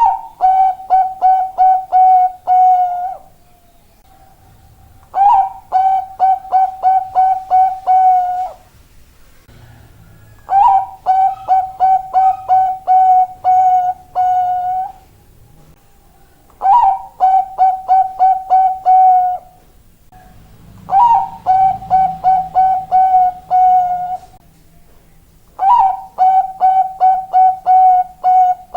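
Bangkok-type zebra dove (perkutut) singing: six phrases of rapid cooing notes, each phrase about three to four seconds long and opening on a slightly higher note, with short pauses between.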